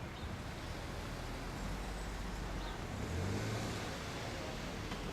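Road traffic noise: a steady rumble, with one vehicle growing louder about three seconds in as it passes.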